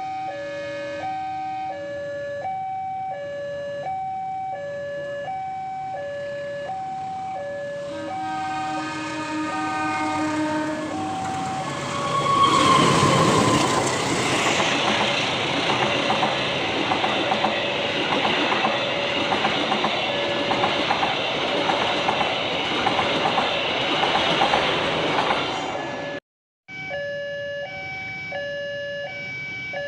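Level-crossing warning alarm alternating between two tones about twice a second. A locomotive horn sounds, then a train passes from about twelve seconds in, its wheels clicking rhythmically over the rail joints. The sound drops out briefly near the end, and the alarm carries on.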